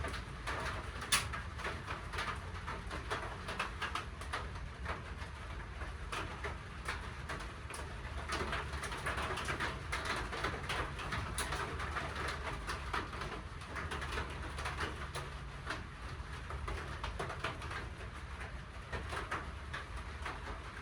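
Rain falling steadily, with a patter of many small, irregular drops.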